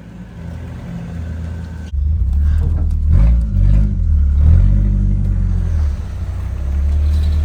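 Nissan Hardbody pickup's freshly swapped engine pulling away. About two seconds in it gets suddenly louder, its pitch rises and falls as it revs, then it settles into a steady run.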